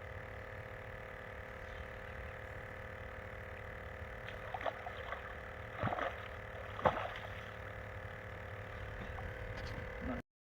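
Boat motor running steadily at a constant speed, with a few brief knocks about halfway through; the sound cuts off suddenly near the end.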